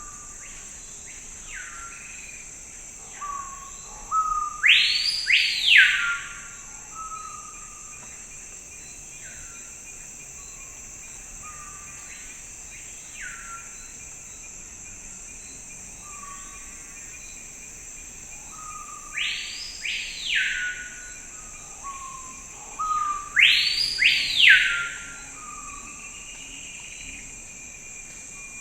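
Songbirds singing in a forest: two bouts of loud, clear whistled phrases, each note sweeping up and then sliding down, with softer calls between, over a steady high-pitched drone.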